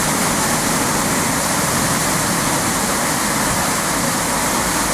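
Steady, loud rushing noise, even and unbroken.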